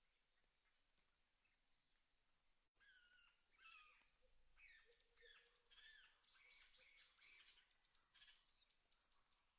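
Faint countryside ambience: a steady high insect buzz, then, after a brief dropout about three seconds in, several birds calling in short curved chirps over a high, rapid insect trill.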